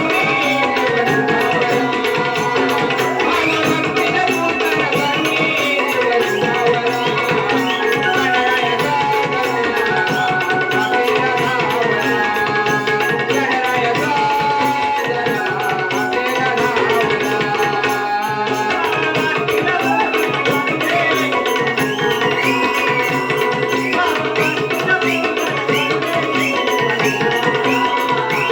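Naman folk music: a drum-led percussion rhythm with a wavering melody line over it, continuous.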